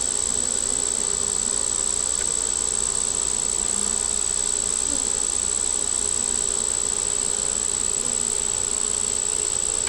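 Honey bees buzzing in a steady hum around an opened hive, the colony stirred up and defensive during the inspection. A constant high-pitched whine sits over the buzzing.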